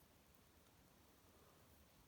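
Near silence: a faint, steady hiss from a fireplace, with no crackles.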